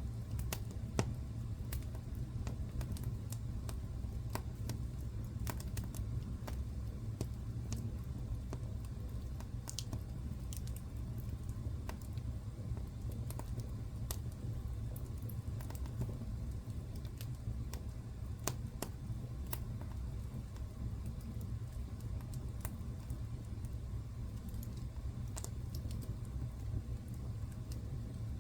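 Wood fire burning in a fireplace: a steady low rumble of flames with irregular crackles and sharp pops of burning logs.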